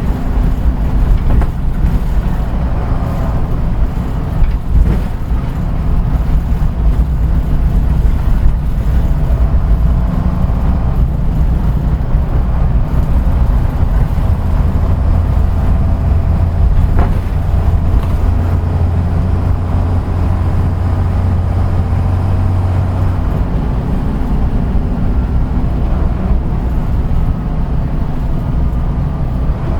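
Route bus engine and road noise heard from inside the bus while it is running, a steady low drone. About two-thirds of the way through, the engine note changes.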